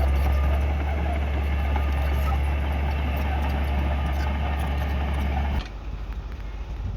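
Heavy diesel engine of earthmoving machinery running steadily with a strong low drone. The sound drops suddenly to a much quieter, rougher level about five and a half seconds in.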